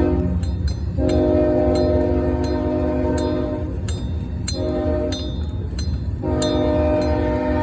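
Locomotive air horn sounding in blasts. The end of a long blast is followed by another long one, then a short one, then a long one: the long-long-short-long pattern of a train approaching a grade crossing. A steady low rumble runs underneath.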